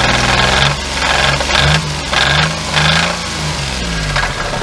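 Geo Metro engine revved in about four short blips, with a wild knock at each rev. The owner blames a spun rod bearing and expects to need a new engine.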